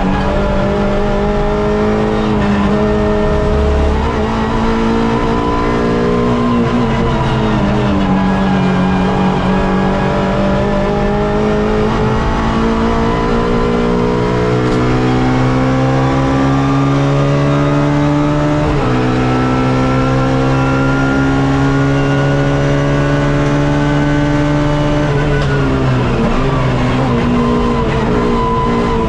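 Suzuki Swift race car's engine heard from inside the car at racing speed, the pitch climbing through the revs and dropping sharply twice as it shifts up. Near the end it falls away as the driver lifts off and slows.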